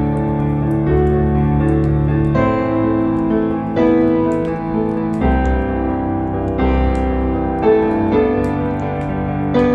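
Piano music with a bass line, the chords changing every second or so, over the crackle of a fireplace heard as scattered small pops.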